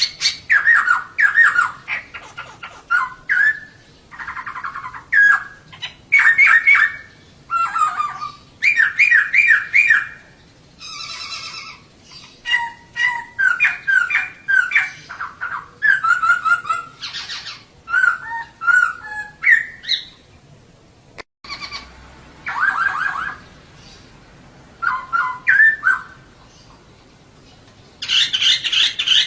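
Female poksay (laughingthrush) calling: a rapid series of chirping, trilled phrases, each lasting about half a second to two seconds, with short pauses between them.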